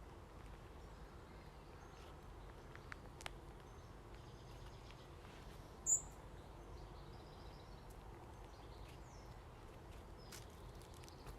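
Quiet outdoor ambience with faint, scattered bird chirps and one short, sharp high chirp about six seconds in.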